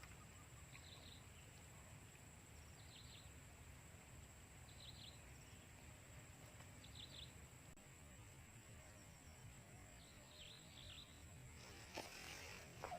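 Near-silent outdoor ambience with faint, short clusters of high chirps repeating about every two seconds, and a click near the end.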